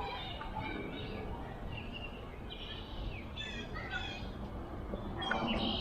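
Several songbirds chirping and singing in quick, short sweeping notes, busiest near the end, over a steady low background rumble.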